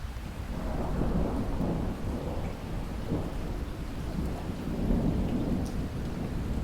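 Rolling thunder rumbling over steady rain, swelling up about a second in and rumbling on unevenly.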